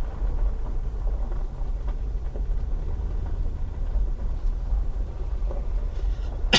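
Steady low rumble of a car's engine and road noise heard from inside the cabin while driving, with a sharp knock right at the end.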